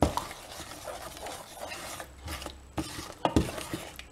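A spoon stirring a liquid marinade of vinegar, soy sauce, garlic, pepper and bay leaves in a pan, with scattered clinks and knocks of the spoon against the pan.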